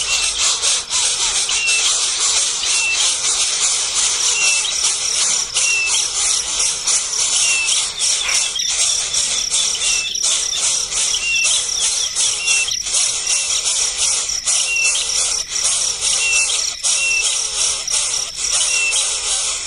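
Birds calling: a short, high, falling chirp repeated about once a second over a dense, shrill, buzzing hiss.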